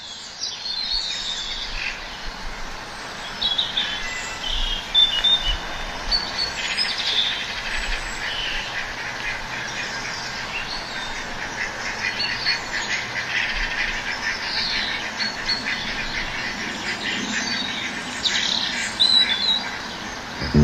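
Small birds chirping and whistling in short high calls, with a fast, rapid chatter running through the middle stretch.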